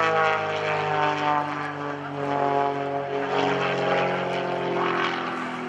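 Pitts S-1S aerobatic biplane flying overhead: its engine of over 200 horsepower and three-bladed Catto composite propeller make a loud, steady drone. The pitch falls over the first second, then climbs again about three seconds in.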